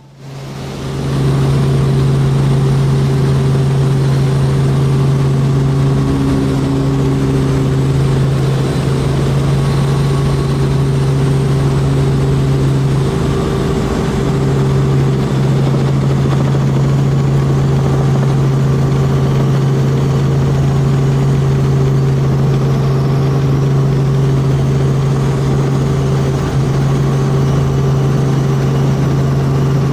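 Tour helicopter's engine and rotors running at a steady, loud drone, with a strong low hum and a few fainter steady tones above it. The sound comes up quickly in the first second.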